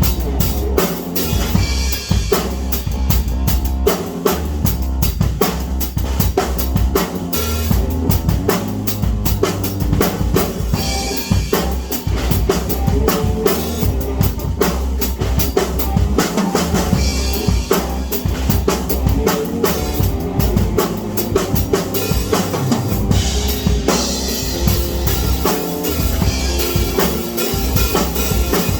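Music driven by a drum kit: a steady beat of bass drum and snare hits, with pitched instruments playing underneath.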